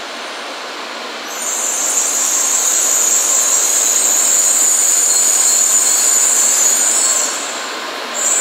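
N700 series Shinkansen train running slowly as it brakes to a stop, a steady running noise under a high-pitched brake squeal. The squeal swells about a second and a half in, holds, fades around seven seconds in, and returns briefly at the end.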